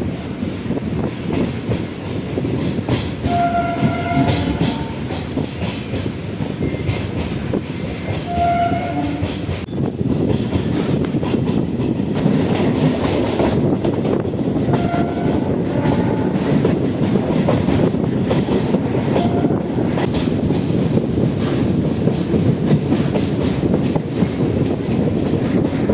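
MEMU electric commuter train running along the line, heard from inside the coach: a steady rumble with wheels clattering over the rail joints. A few short, higher tones sound over it, at about 4 seconds, about 8 seconds and about 15 seconds in.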